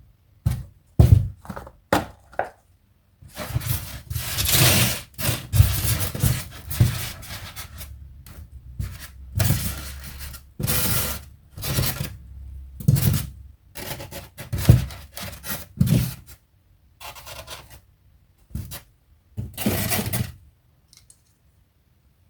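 Toy figures and their packaging being handled: irregular scraping and rubbing with knocks, in short spurts with brief pauses, stopping a couple of seconds before the end.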